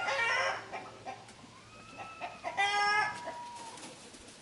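Chickens clucking, with two louder calls: one at the start and one about two and a half seconds in.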